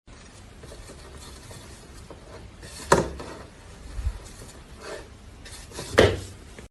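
Clattering of hard objects: two sharp clatters about three seconds apart, the second the loudest, with a few softer knocks between, over a steady low hiss.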